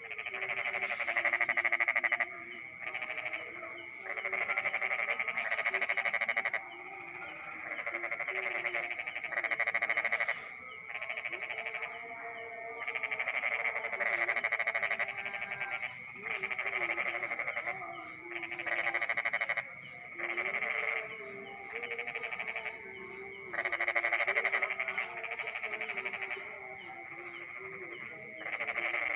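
Night chorus of frogs calling in overlapping bouts of a second or two, over a steady high-pitched insect trill.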